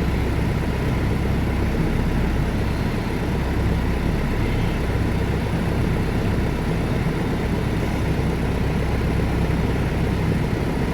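Audi A4 B6 TDI diesel engine idling steadily just after a cold start in freezing weather.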